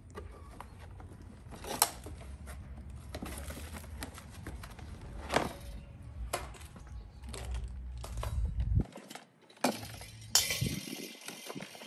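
Hard parts being handled and set down: scattered clicks and knocks, over a low rumble that cuts off suddenly near the end.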